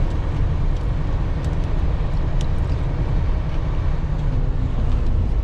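Steady low rumble of a 2020 Freightliner Cascadia semi truck's engine and road noise heard inside the cab while driving, with a few faint ticks.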